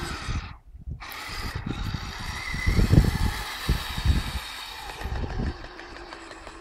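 Kyosho Blizzard RC snowcat's electric motor and tracks running with a steady whine, under irregular low rumbles and knocks. The sound cuts out briefly about half a second in.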